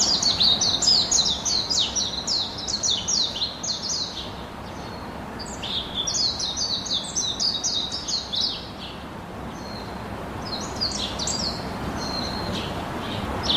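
A bird chirping in quick runs of short, high notes that each sweep downward, about four or five a second. Bouts of chirping are broken by short gaps, with a steady faint hiss of background noise underneath.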